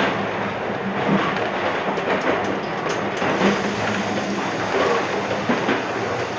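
Iyotetsu 3000 series electric train running along the track, heard from inside the car: a steady running noise and hum, with occasional clicks from the wheels over rail joints.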